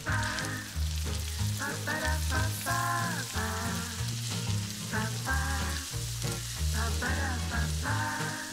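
Corn kernels frying in butter in a nonstick pan, sizzling as a spatula stirs them, under background music with a melody and a bass line.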